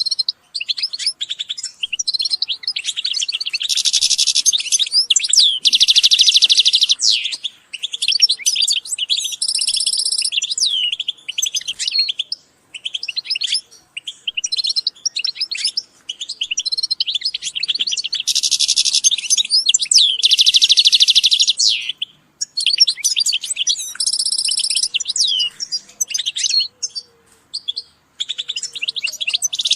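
European goldfinches singing and calling in quick, liquid twitters, broken twice by long, dense trills.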